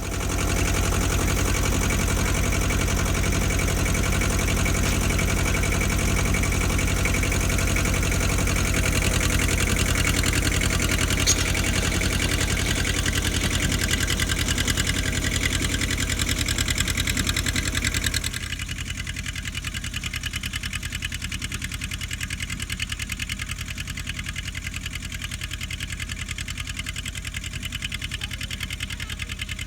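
Ford 1700 tractor's three-cylinder diesel engine running steadily while pulling a single-bottom moldboard plow through unbroken ground on the first pass. About 18 seconds in, the engine sound drops noticeably quieter and stays steady.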